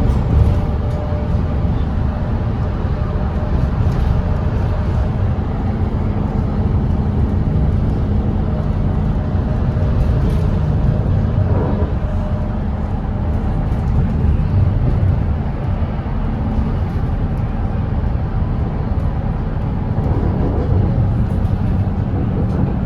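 Volvo B8RLE double-decker diesel bus engine running steadily at highway speed, a constant low drone with road rumble underneath.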